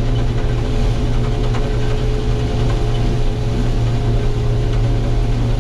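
Case IH combine running, heard from inside the cab: a steady, loud low drone with a constant hum tone above it.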